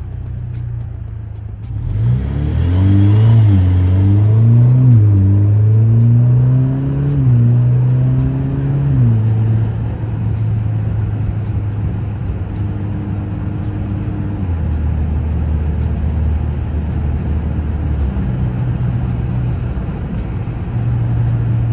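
2017 Alfa Romeo Giulia's turbocharged four-cylinder with a muffler delete, cruising, then pulling hard about two seconds in. The engine note climbs and drops back at each of four upshifts over about seven seconds, then settles to a steady cruise, running lower for a few seconds past the middle.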